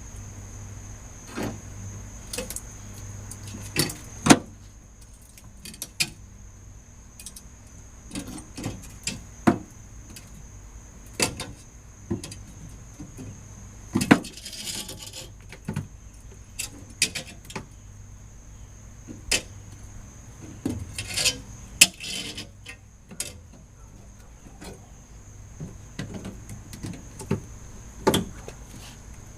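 Scattered metallic clinks and knocks of hand tools and hardware being handled, with two short rattling bursts, over a faint steady high whine.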